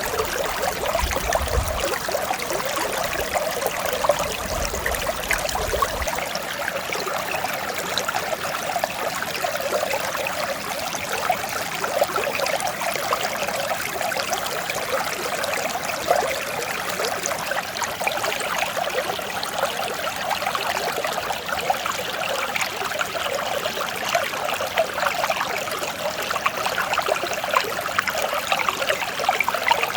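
Mountain stream flowing steadily, a dense burble of small splashes over a constant wash of water. A low rumble sits under it for the first few seconds.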